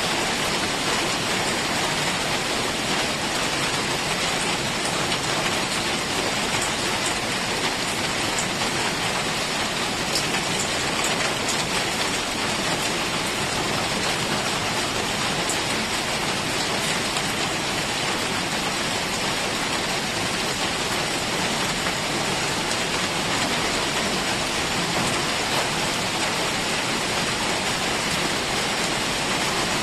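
Heavy rain falling steadily, an even dense hiss with faint scattered drop ticks.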